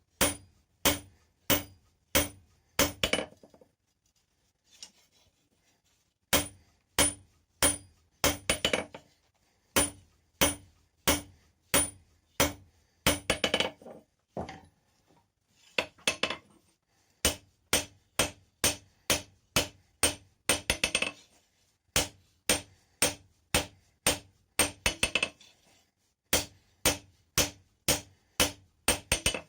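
Blacksmith's hand hammer forging a rebar bar on an anvil: a long series of sharp metal strikes, about two a second, each with a brief ringing tone. The hammering pauses for about three seconds some four seconds in, and again briefly around the middle, then runs on steadily.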